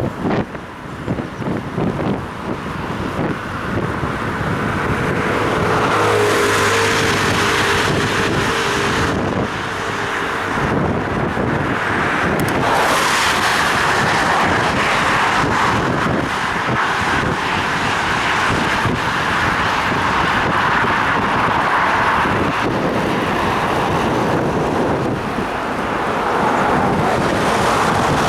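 Rushing wind and wet road noise picked up by a head-mounted action camera on a bicycle ride in the rain, with a faint steady whine from about five to nine seconds in.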